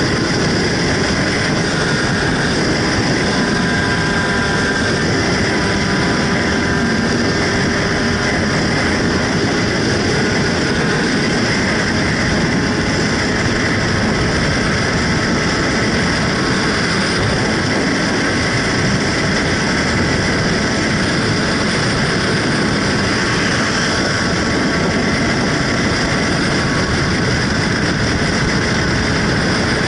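Motorcycle engines running in a steady, dense mix, with a few faint engine tones drifting slightly up and down in pitch.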